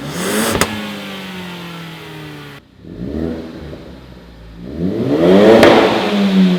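Ford Focus ST's turbocharged 2.0-litre four-cylinder revving through a 3-inch straight cat-back exhaust: three blips, each rising in pitch and sinking back to idle, the last the loudest. A sharp crack comes at the top of the first and last rev.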